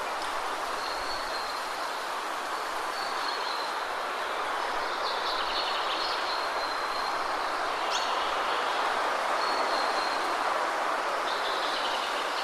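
Steady rushing of a waterfall, with birds chirping a few times over it and a thin high note coming and going.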